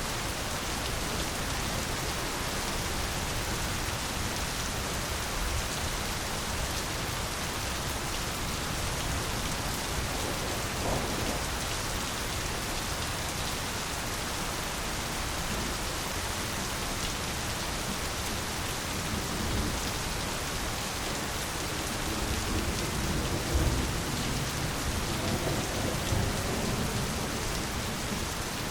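Steady, dense rainfall hissing evenly on foliage and ground, with a low rumble of thunder swelling in the last few seconds.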